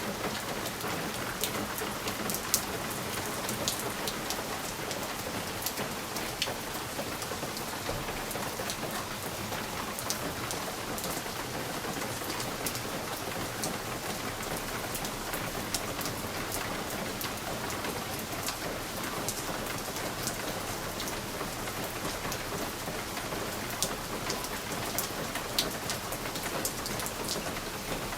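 Steady rain on a window pane: a continuous hiss of rainfall with scattered sharp drop taps on the glass.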